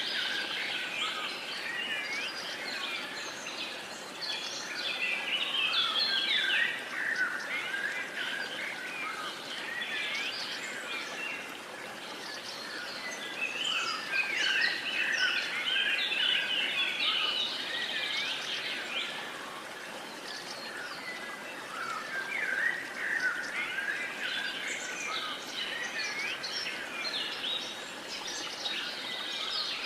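Several birds chirping and singing together, their song thickening and thinning every few seconds, over a steady soft background hiss.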